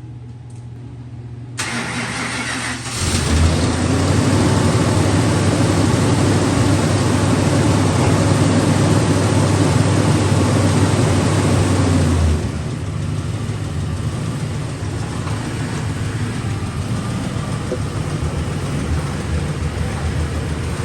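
A Ford 5.4L three-valve Triton V8 in a 2006 F-250 is cranked and starts, then runs at a loud fast idle for about nine seconds before dropping to a quieter, steady idle about twelve seconds in.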